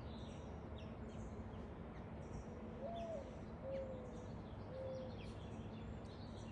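Birds calling: many short, high chirps throughout, and about halfway through, three low calls in a row, the first rising and then falling.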